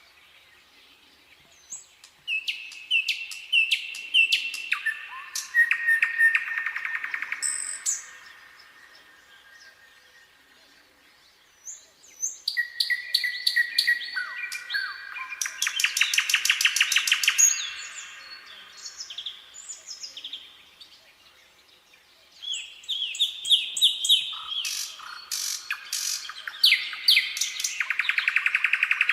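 Nightingale singing: three separate song phrases of rapid repeated notes and fast trills, with pauses of a few seconds between them.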